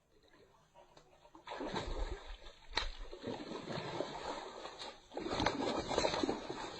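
Water splashing and sloshing in two spells, the first about a second and a half in and a louder one about five seconds in, with a single sharp click during the first.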